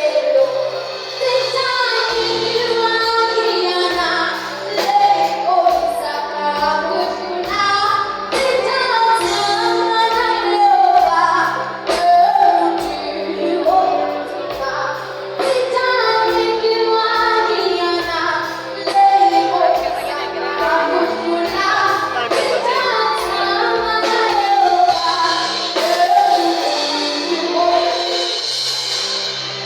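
A children's song sung by a female and child voices over a recorded backing track with a steady beat.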